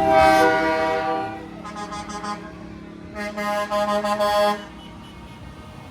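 Parade trucks' horns honking: a held horn blast at the start, a few short toots, then another held blast about three seconds in.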